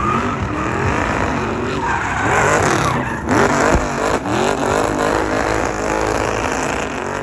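Car tyres squealing and skidding over a running engine, with several wavering squeals overlapping, busiest a couple of seconds in.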